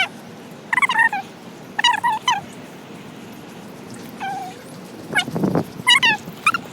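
Animal calls: short, wavering, high-pitched cries, most of them coming in pairs about a second apart, with a brief noisy low sound about five seconds in.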